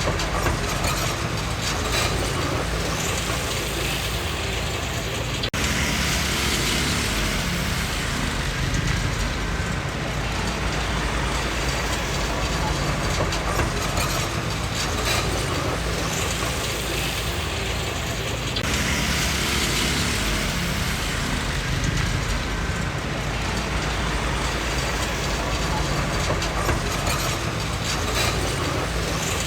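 Komatsu D20P small crawler bulldozer at work: its diesel engine running steadily with the mechanical clatter of its steel tracks. The sound changes abruptly twice.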